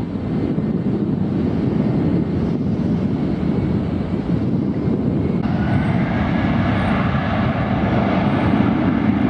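Jet airliner engines running with a steady low rumble; about halfway through a higher hiss and faint whine come in.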